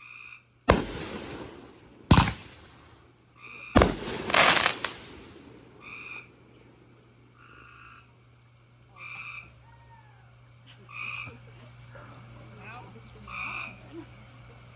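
Fireworks going off: four sharp bangs in the first five seconds, the last a longer crackling burst. Through and after them, frogs croak, a short call every second or two.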